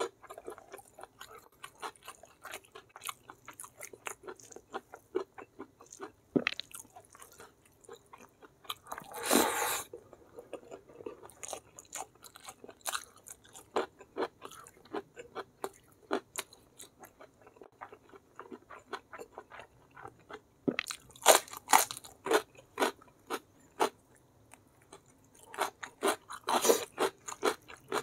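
Close-miked chewing and gnawing of beef-foot tendon and skin on the bone, many wet, sticky smacks and crunchy bites in irregular bursts. A louder, longer rustling crunch comes about nine seconds in, and the chewing gets busier near the end.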